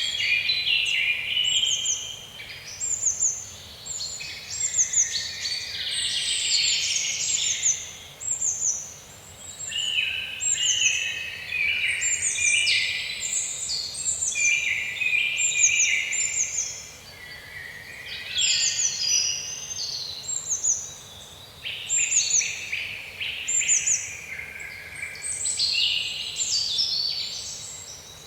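Several songbirds singing at once, a dense run of short, high chirps and quick down-slurred notes that overlap and rise and fall in waves, over a faint steady hiss.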